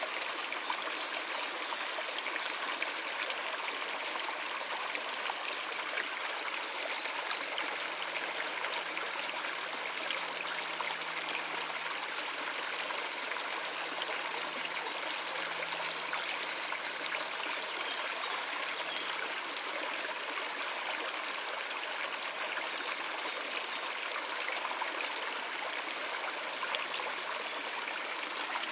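Shallow stream running over rocks, a steady rushing and trickling of water.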